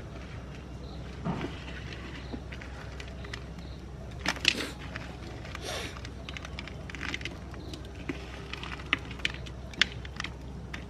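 Hard-candy lollipops cracking and crunching in a meat grinder: irregular sharp cracks and short crunches over a low steady hum, loudest about four seconds in and again near the end.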